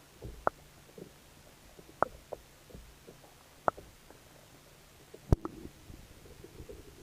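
Scattered sharp clicks and knocks, about five over several seconds with the loudest near the end, over a faint low rumble.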